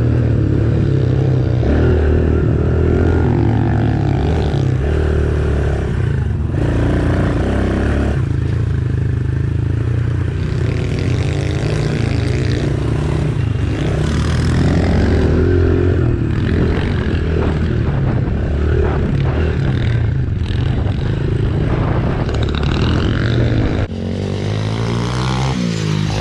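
110cc single-cylinder four-stroke pit bike engine being ridden hard, its note rising and dropping over and over as the throttle is opened and shut, with brief breaks in between.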